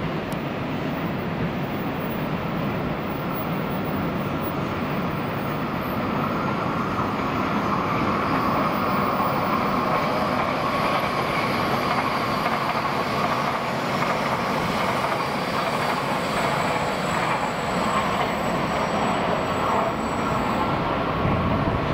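Class 923 Doctor Yellow Shinkansen inspection train running at speed, a steady rushing rail noise that grows louder about seven seconds in as the train draws nearer.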